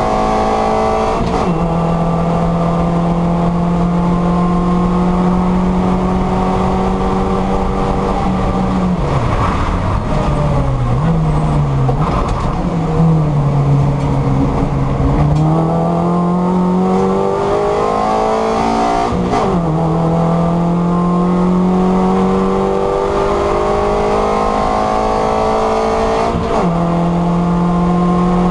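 Mini Cooper race car engine heard from inside the cockpit, running hard with a steady drone. Its pitch drops suddenly at gear changes, about a second in, about two-thirds of the way through and near the end. In the middle it sags and wavers as the car slows, then climbs steadily again.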